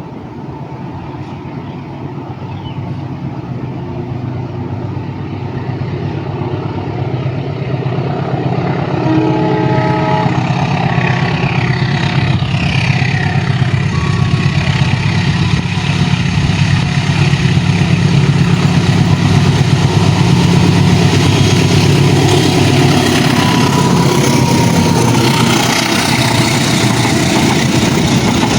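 Diesel-electric locomotive hauling a train, approaching and growing louder over the first ten seconds, then passing close with a steady engine hum and the rumble of the train, with short high squeals from the wheels about twelve seconds in.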